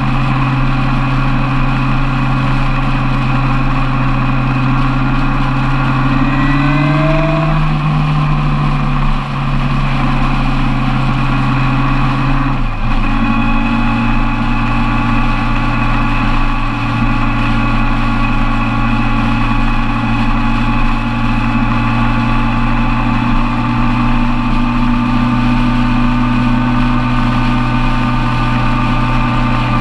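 Suzuki Bandit 1200's inline-four engine at steady motorway cruise. Its note rises a little around seven seconds in, then drops abruptly to a lower steady pitch about halfway through.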